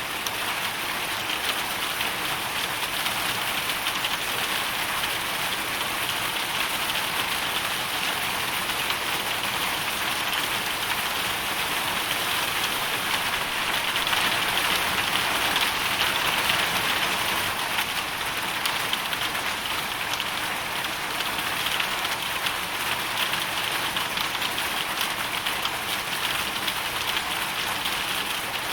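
Hailstorm: a steady, dense fall of hail and rain, many small impacts merging into one hiss, swelling slightly about halfway through.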